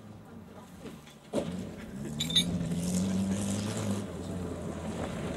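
Small hatchback's engine revving as the car is driven hard across a dirt track and comes closer. The engine sound comes in suddenly about a second in, climbs in pitch, then eases off near the end, with a brief metallic clink or rattle partway through.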